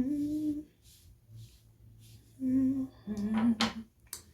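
A woman humming a tune to herself in three held notes, with a couple of sharp clicks near the end.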